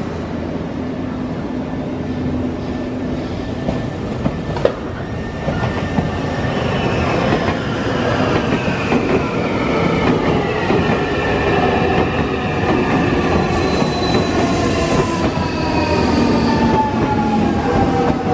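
Nankai 6000 series eight-car electric train pulling away from the platform, growing louder as it gathers speed. High drawn-out wheel squeal slides slowly down in pitch over the rolling rumble, with a sharp click about four and a half seconds in.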